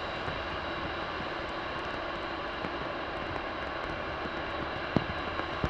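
Jet aircraft engines running steadily, a constant rushing hum with a faint high turbine whine, with a couple of small clicks.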